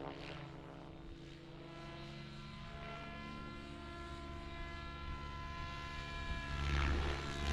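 RC model helicopter in flight, its rotor and motor giving a steady, even-pitched whine, with a low rumble growing louder near the end.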